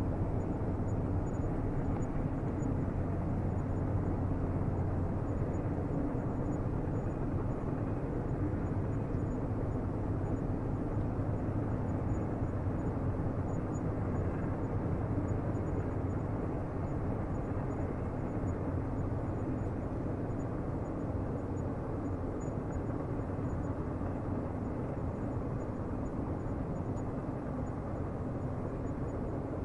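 Low, steady rumble of a distant train rolling along the rails, slowly fading away.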